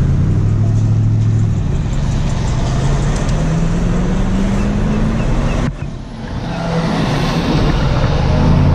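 Vehicle engine heard from inside the cab, pulling away and accelerating, its pitch rising for a few seconds. About six seconds in the sound drops suddenly and briefly, then the engine and road noise carry on steadily.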